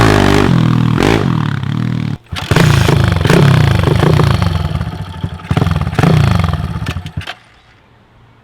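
Small single-cylinder four-stroke pit bike engine revving up and down. It drops out for a moment about two seconds in, then cuts off abruptly near the end as the bike stalls.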